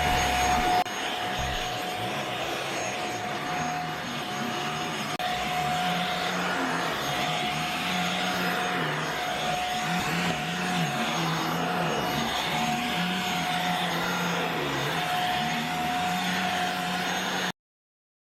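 Corded handheld mattress vacuum (JPHYLL, 500 W) running steadily, a motor whine over the rush of air, its low hum wavering as it works over a mattress. The sound cuts off suddenly near the end.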